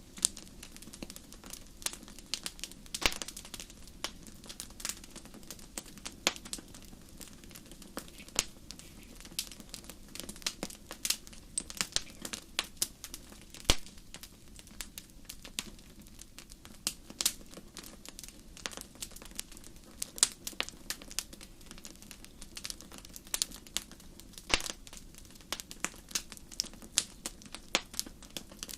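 Wood fire burning in a fireplace: irregular sharp crackles and pops, several a second, over a low steady rumble of flame.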